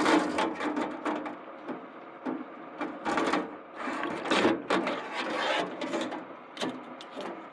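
Irregular clanks, knocks and scrapes of a metal tractor part being handled and lifted out of the tank it has been soaking in.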